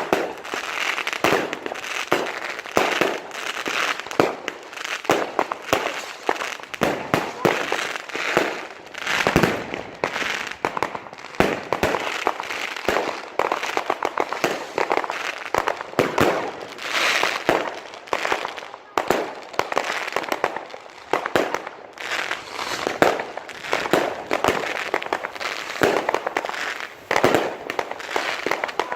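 Many fireworks and firecrackers going off at once, a dense run of bangs and crackling with hardly a break.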